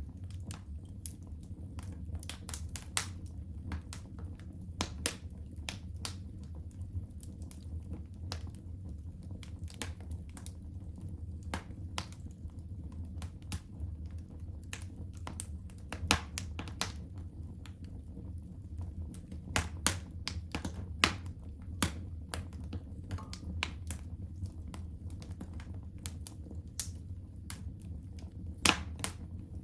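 Wood fire in a fireplace crackling: irregular sharp pops and snaps, a few louder ones now and then, over a low steady rumble.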